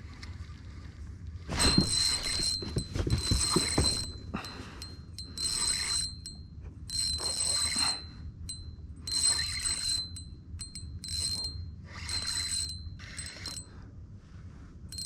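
Fishing reel whirring in repeated bursts of one to two seconds, a thin whine with short pauses between, as line is worked on the reel. The first burst also has a few low thumps.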